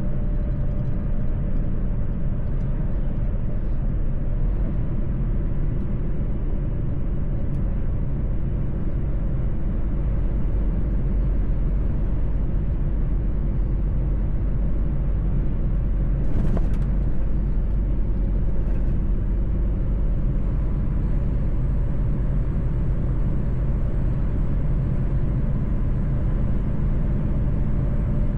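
Mercedes-Benz truck driving at a steady pace, its engine and tyres making a steady low rumble. A short sharp click comes about sixteen seconds in, and a fainter one a couple of seconds later.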